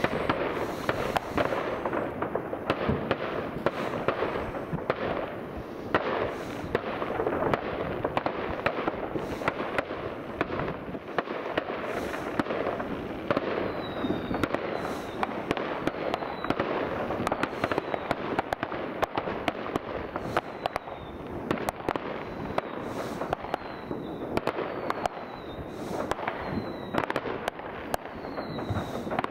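New Year's fireworks and firecrackers going off all over a town: a dense, unbroken crackle of bangs and pops. From about halfway through, a short falling whistle repeats roughly once a second over the crackle.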